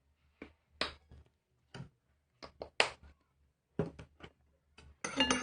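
A run of about eight short, sharp clicks and taps, spaced irregularly, from slime ingredients and their containers being handled and set down.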